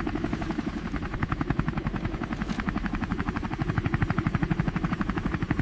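Helicopter rotor sound effect: a steady, rapid chopping of the blades while the helicopter hovers.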